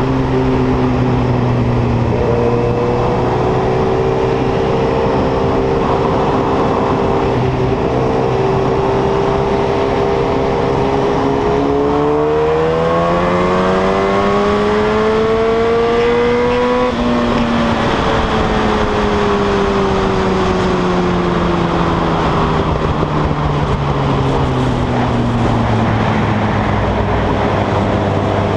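Yamaha R1 (RN09) 998 cc inline-four running with no exhaust silencer, loud, with the bike under way. The engine note holds steady, rises in pitch a little before halfway, then drops back.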